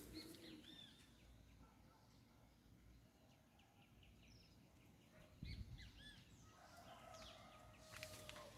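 Faint dawn birdsong: several birds giving short, arched whistled notes and chirps, scattered and quiet. A brief low rumble comes about five and a half seconds in.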